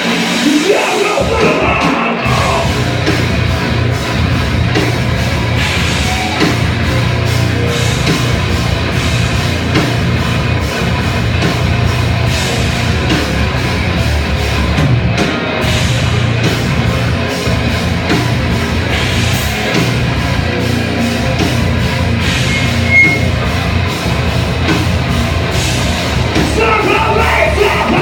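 Live rock band playing loud and heavy, with dense drumming and distorted instruments; shouted vocals come in briefly about a second in and again near the end.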